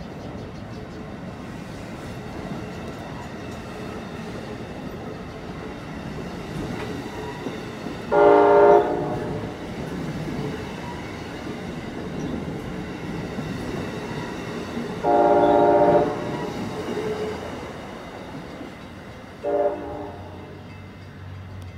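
Amtrak passenger train's coaches rumbling past on the rails and moving away, while the train's several-note horn sounds three times: a short blast about eight seconds in, a slightly longer one around fifteen seconds, and a brief toot near the end.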